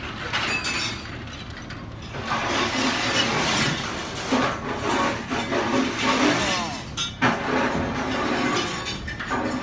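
Scrap-yard grapple claw handling and crushing a car: metal crunching and glass breaking, getting louder about two seconds in, with a squeal of metal around six seconds and a sharp bang about seven seconds in.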